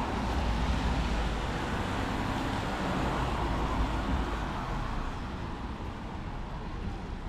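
Road traffic on a wet street: a vehicle's tyre hiss and engine rumble, swelling and then easing off after about four seconds.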